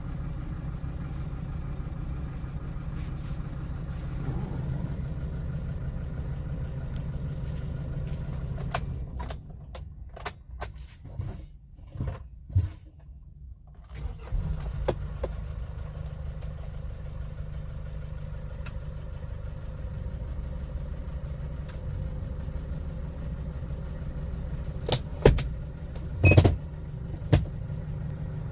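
Kia Bongo III truck running with a steady low engine hum. The hum breaks into an uneven, patchy stretch for a few seconds near the middle, and a few sharp knocks come near the end.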